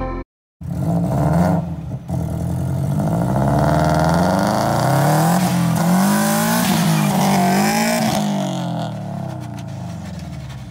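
Subaru Impreza's flat-four engine revving up and down over and over as the car slides around on wet pavement, with a hiss of tyre spray. Near the end the revs drop away and a few knocks are heard as the front wheel, its lug nuts left untightened, works loose and comes off.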